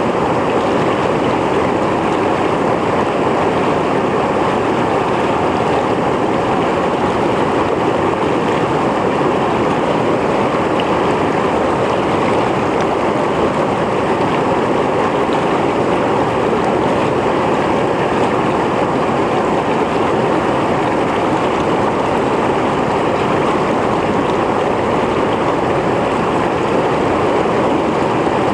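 Mountain stream flowing over rocks, a steady, loud rush of water.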